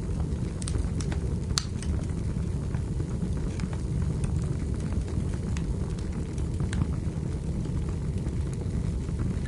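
Wood fire in a fireplace crackling: a steady low rumble with scattered sharp pops, one louder pop about a second and a half in.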